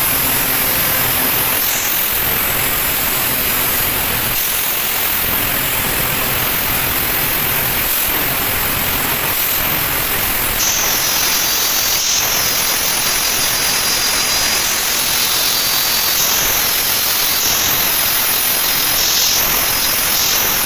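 Electric grinder grinding steel for a blade: a loud, steady rasp with a high whine that shifts in pitch as the tool is pressed and eased.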